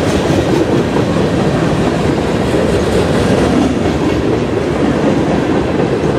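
Freight cars rolling past close by: a steady, loud rumble and clatter of steel wheels on the rails.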